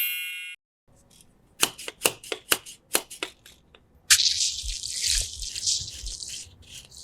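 Toy unboxing handling sounds: a chime fading out at the start, then a run of light taps and clicks, then about two seconds of crinkly rustling and tearing, like plastic packaging being opened, from about four seconds in.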